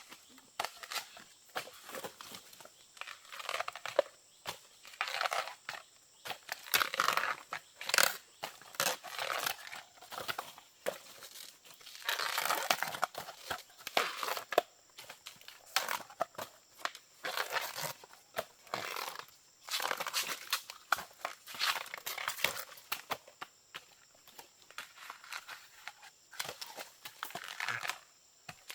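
Dry plant material being handled: irregular crackling, rustling and tearing, busiest in the middle and again a little past halfway, thinning out near the end.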